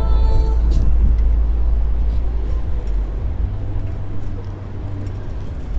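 City street traffic noise heard from a moving bicycle, dominated by a heavy, steady low rumble.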